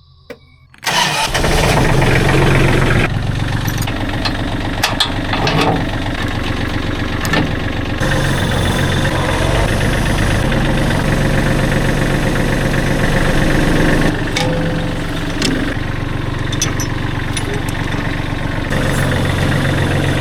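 Bandsaw sawmill's gasoline engine starting about a second in, then running steadily at a loud level.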